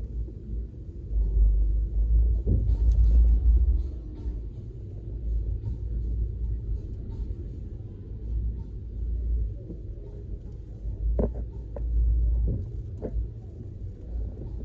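Low rumble of a car being driven through town traffic, swelling and fading in surges. A few sharp clicks come about three quarters of the way through.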